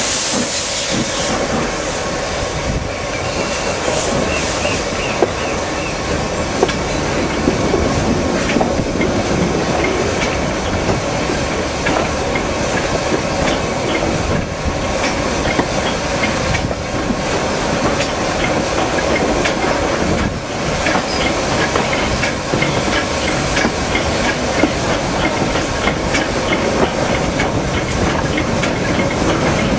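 Steam-hauled train running downhill: a steady rumble and clickety-clack of the wheels over rail joints, with occasional wheel squeal on the curves.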